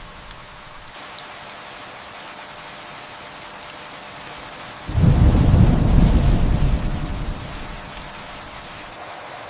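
Steady rain falling, with a single thunder rumble that comes in suddenly about halfway through and dies away over two or three seconds.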